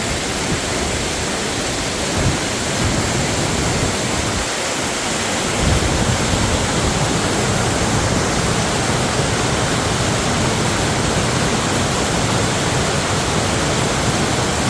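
Steady, loud rushing of fast-running floodwater, with a low rumble that grows stronger about five and a half seconds in.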